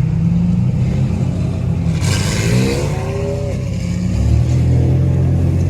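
Car engines running in traffic with a steady low drone. About two seconds in, one engine revs up with a rising pitch and a rush of noise for about a second and a half, then settles back into the drone.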